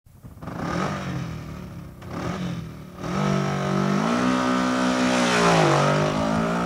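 Motorcycle engine revving: two short blips of the throttle, then it runs on strongly about halfway through, its pitch stepping up, dipping briefly and coming back up near the end.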